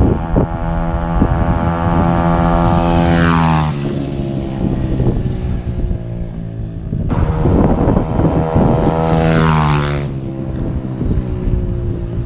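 Apollo 125cc dirt bike's single-cylinder engine running at high revs, fitted with a racing CDI. Its note holds high and steady, then falls quickly in pitch about three and a half seconds in; a second high-revving run near the middle falls the same way about ten seconds in.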